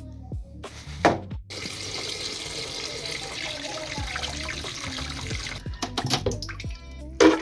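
Water running steadily from a kitchen tap into a sink for about four seconds, starting about a second and a half in and stopping abruptly. There is a short knock just before the water starts and another near the end.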